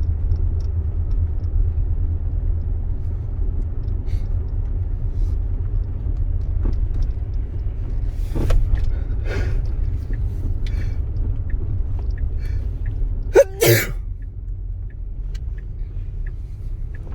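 Steady low rumble inside a Tesla's cabin while it drives through a turn, with a short, sharp burst about thirteen and a half seconds in.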